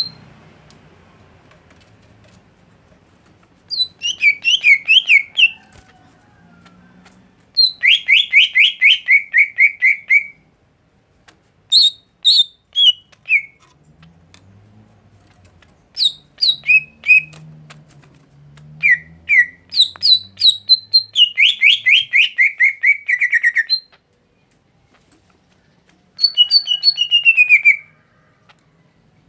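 A songbird singing in about six short phrases of fast, repeated chirping notes with gaps of a second or two between them, several phrases sliding down in pitch. It is a tutor-bird song of the kind played to teach a caged greater green leafbird.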